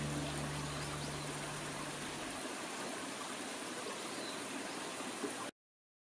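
Steady rush of flowing water, with the tail of background music fading out underneath in the first two seconds. The water cuts off abruptly about five and a half seconds in.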